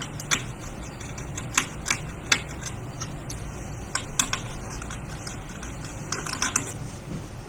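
Scattered sharp clicks and small taps of a screwdriver and loose screws on a laptop chassis as the motherboard screws are taken out, several in quick succession around four seconds in and again near the end, over a low steady hum.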